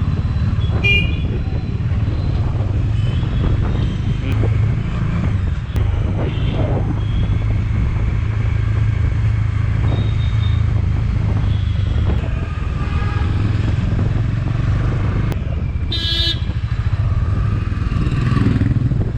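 Motorcycle engine running steadily under way, with a constant low rumble and road noise. A vehicle horn toots briefly about a second in and honks more strongly near the end.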